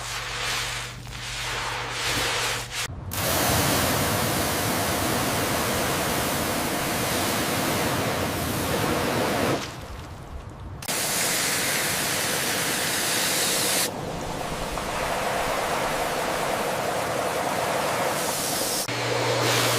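A few seconds of scrubbing strokes, then a steady jet of water spraying on the rusty metal toy train. The spray stops briefly about ten seconds in and then starts again.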